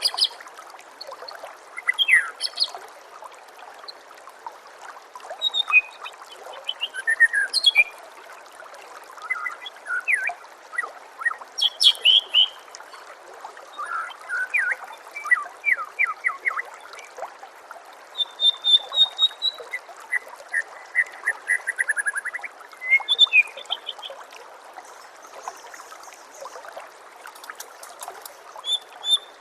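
White-rumped shama (murai batu) singing a varied string of whistles, chirps and rapid trilled note series, phrase after phrase with short gaps, over a steady background of trickling water.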